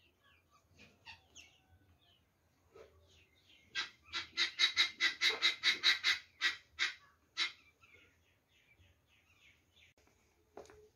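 A bird calling in a quick series of about a dozen short notes, roughly four a second, swelling and then fading over a few seconds. Faint chirps of other birds sound before and after.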